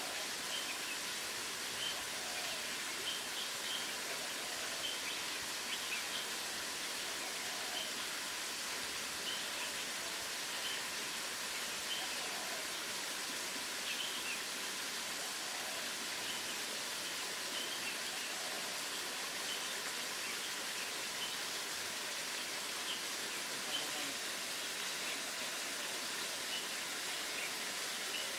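Short bird chirps scattered every second or two over a steady hiss of outdoor background noise.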